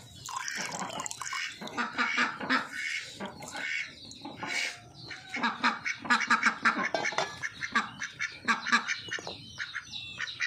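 Birds calling over and over in a dense, irregular run of short, harsh calls.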